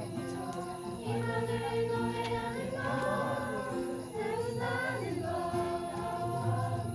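A group of children singing a song together in chorus, with low held notes of musical accompaniment underneath.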